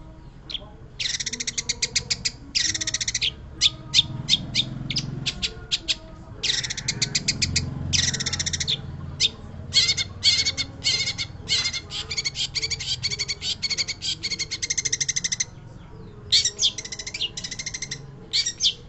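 Long-tailed shrike singing a vigorous, scratchy song of fast-repeated harsh notes in bursts, with short pauses between phrases. One long unbroken run of notes comes about ten seconds in.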